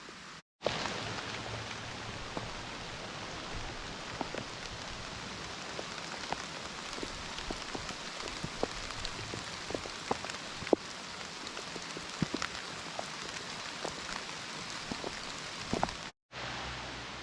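Steady rain falling, with many separate drops tapping on a surface. The sound cuts out completely for a moment about half a second in and again near the end.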